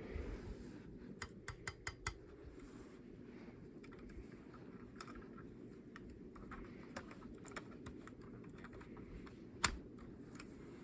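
Light plastic clicks and taps of a model car being handled, a quick run of five about a second in and a sharper single click near the end, over a low steady hum.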